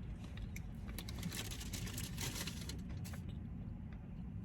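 Close-miked crackling and rustling with small clicks as cookies are handled and eaten, strongest in the middle couple of seconds.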